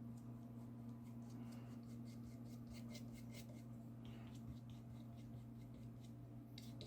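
Faint scratchy dabs of a small paintbrush putting gouache onto watercolour paper, short strokes coming a few times a second, over a steady low hum.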